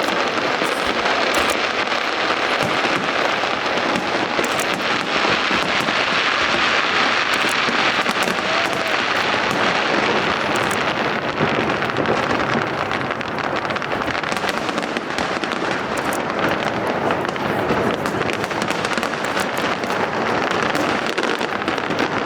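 Fireworks display going off, many rapid crackles and bursts running together into a steady din.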